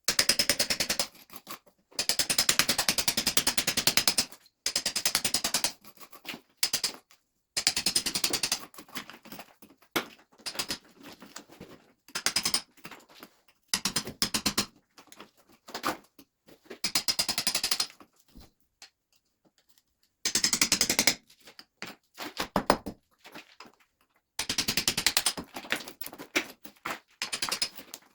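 Power hammer drill used as a chisel, rapidly hammering in short bursts of a second or two with brief pauses, breaking old mortar out from between stones.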